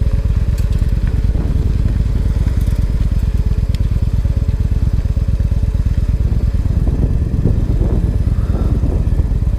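Victory Highball motorcycle's V-twin engine running steadily as the bike is ridden, a loud, low, rapid pulsing.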